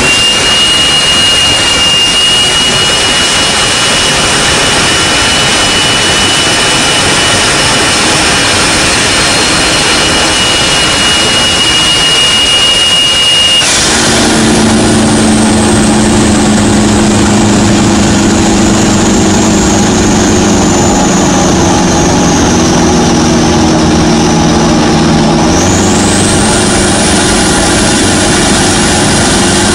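Toyota Innova's 1KD turbo-diesel pulling hard at highway speed: a loud rush of engine and wind noise with a steady high whistle over it. About halfway through this gives way abruptly to a lower, droning engine note that sinks slowly in pitch as the car slows, then steps back up a few seconds before the end.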